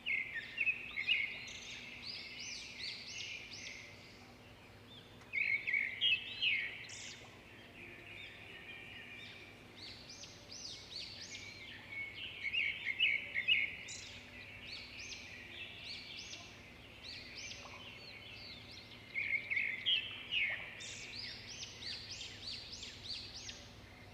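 Birds chirping: bursts of quick, high, sweeping notes, with short pauses between the bursts, over a faint steady hum.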